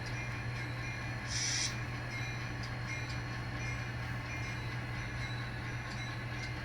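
N scale model train running on the layout: a steady low hum, with a brief hiss about a second and a half in.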